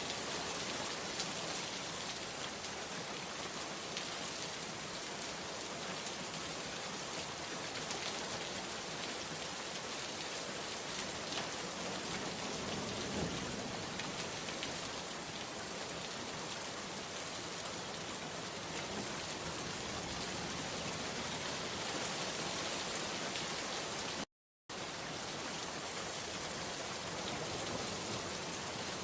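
Steady rain falling: an even, dense hiss with scattered louder drop ticks. It cuts out to silence for a split second about four-fifths of the way through, then resumes.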